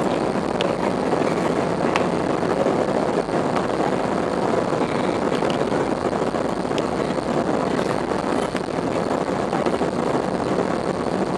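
Airbus A320 jet airliner engines running with a steady, even noise that holds at one level.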